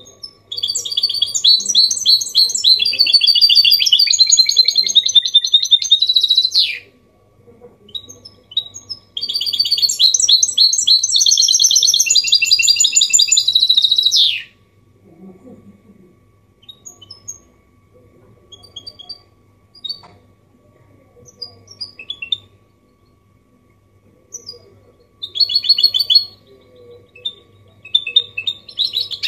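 A goldfinch mule (a goldfinch hybrid) singing: two long, rapid twittering song phrases of several seconds each, then scattered short call notes, and another short burst of song near the end.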